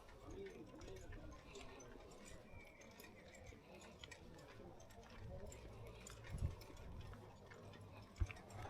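Faint background noise with a low rumble and faint distant voices, broken by two short thumps about six and eight seconds in.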